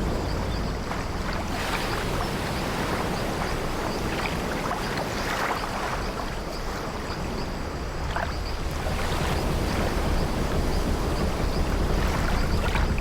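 Sea waves washing against an old wooden ship, a steady low rumble of water, with a few brief creaks from the ship's wooden timbers.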